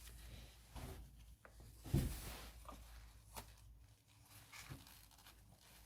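Faint clicks and light handling noise of hands working at the engine, unplugging the wiring connectors from the ignition coils, with a dull knock about two seconds in.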